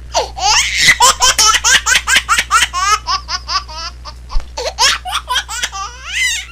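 Baby laughing in a long run of quick, high-pitched giggles, about five a second, easing off past the middle, then a few more bursts and a rising squeal near the end.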